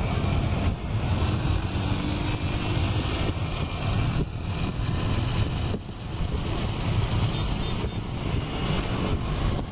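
Wind buffeting the microphone of a moving motorcycle, a steady dense rumble of wind and road noise.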